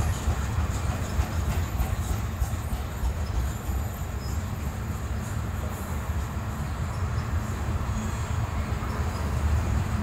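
Freight train of ethanol tank cars rolling past, a steady low rumble of steel wheels on the rails.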